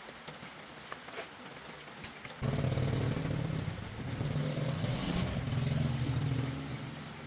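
A small vehicle engine comes in suddenly about two and a half seconds in and runs, its speed and loudness rising and falling, then eases down near the end. Before it there is only a faint steady hiss.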